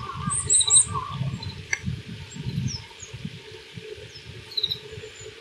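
Oriental greenfinch singing: a quick run of three high chirps about half a second in, a short warbling phrase, then scattered single calls that thin out. A low, uneven rumble runs underneath.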